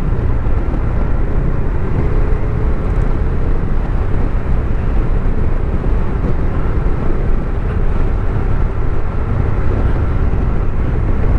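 Motorcycle on the move: a steady engine under heavy wind noise on the microphone.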